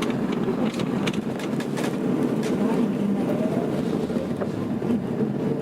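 Tokyo Metro 02 series subway train running, heard from inside the car: steady wheel-and-rail rumble with a few sharp clicks early on. Past the middle a thin, steadily rising whine from the IGBT traction inverter comes in as the train accelerates.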